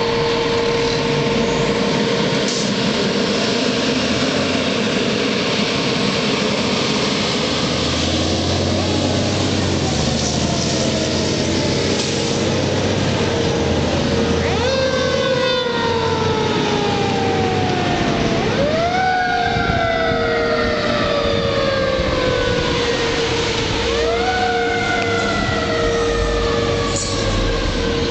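Fire engine (a 2004 E-One Cyclone pumper) responding, its engine running under a steady tone. About halfway in its siren starts to wail: three cycles, each rising quickly and then falling slowly in pitch.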